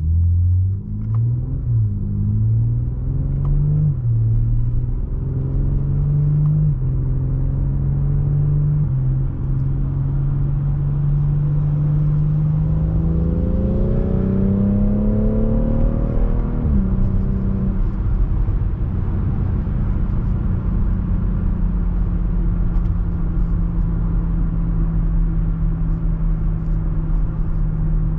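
BMW X3 M40i's B58 turbocharged inline-six, through the stock exhaust, accelerating hard: in the first few seconds the pitch climbs and drops back several times as it shifts up through the gears. A second, longer pull rises until about two-thirds of the way in, falls away sharply, and the engine then settles to a steady cruising note.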